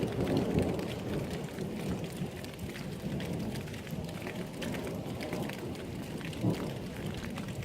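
Thunder rumbling over steady rain, loudest in the first second and swelling again briefly near the end, with the fine patter of raindrops throughout.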